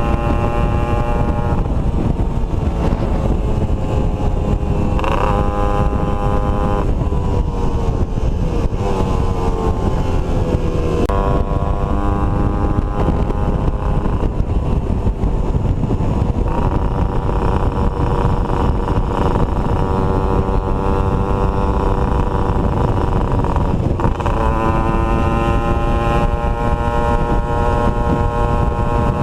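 Two-stroke motorcycle engine running under way. Its note drops and climbs again several times with the throttle, over a steady low rumble.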